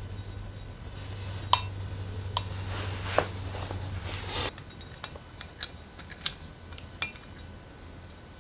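Metal tools and engine parts clinking and tapping: a few sharp clinks in the first half, then lighter ticks. A low steady hum stops about halfway through.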